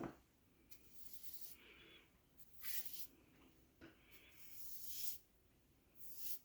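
Paintbrush strokes on a pre-primed MDF door frame, a faint swish with each stroke, about five strokes, as acrylic top coat is feathered out. A light click right at the start and another shortly before the longest stroke.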